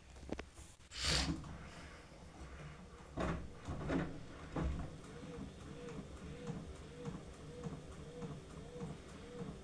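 Beko washing machine in service test mode: a few clicks and knocks, then about halfway through the motor starts turning the drum slowly. Its hum wavers evenly about twice a second, with faint regular ticks.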